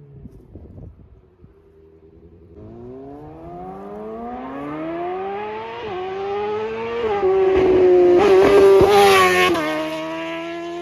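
A 2020 Suzuki GSX-R750's inline-four, with a slip-on exhaust and Moore Mafia ECU flash, accelerating hard. The revs climb, drop at quick upshifts about six and seven seconds in, then climb again as the bike gets much louder. Near the end the pitch drops and the sound fades as it goes by.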